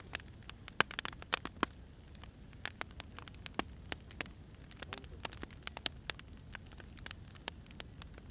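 Firewood crackling as it burns: irregular sharp pops and snaps, several a second, over a low steady rush of the flames.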